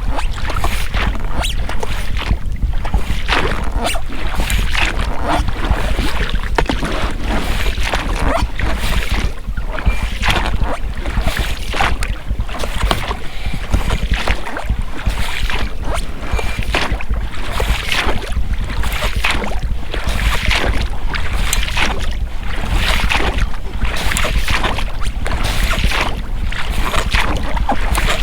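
Oars of an inflatable rowing boat dipping and splashing in the water, stroke after stroke, with the rubber rowlocks working, over a steady low rumble.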